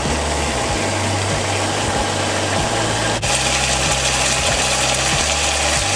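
Chicken and green beans sizzling steadily in a hot wok as the last of their liquid cooks off, under a steady low hum.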